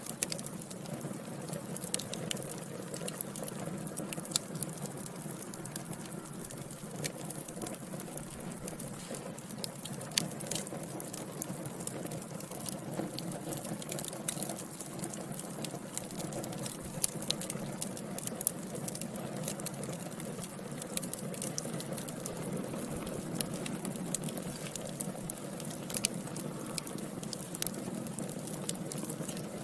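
Wood fire burning in a fireplace: a steady low rushing of flames with irregular sharp crackles and pops, a few of them louder.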